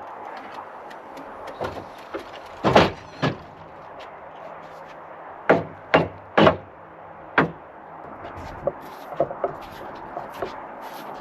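Several loud knocks and bangs, about six within five seconds, followed by a run of lighter clicks and taps, over a steady background noise.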